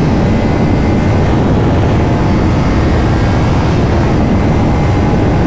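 Kawasaki Ninja 500 parallel-twin engine running hard as the motorcycle accelerates past a car, under a steady rush of wind noise.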